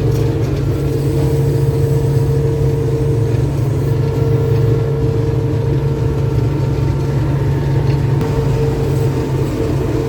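Combine harvester running steadily while combining winter barley: a constant engine drone with a steady whine above it.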